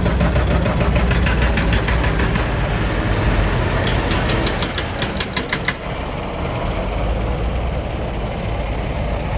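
Heavy diesel machine engine running, with two runs of rapid metallic clattering at about five knocks a second, in the first couple of seconds and again around the middle. The engine drops back to a lower, steadier run after about six seconds.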